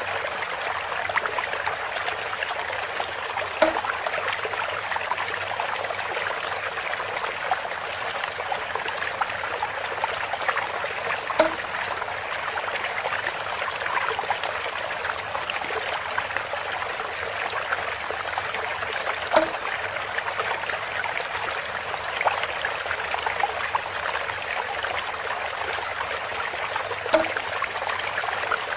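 Water trickling and pouring steadily through bamboo, with a short hollow knock about every eight seconds, four times in all.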